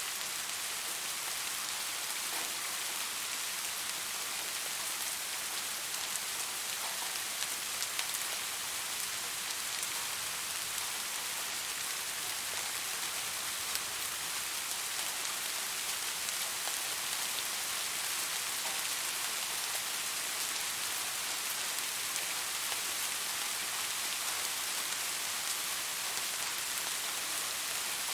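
Steady rain falling on a surface, an even hiss with scattered light drop ticks and no change in strength.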